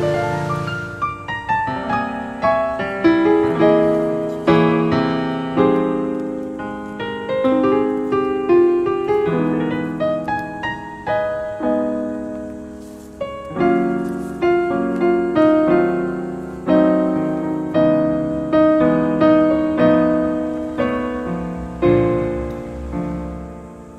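Background piano music: a gentle melody of struck notes over soft chords.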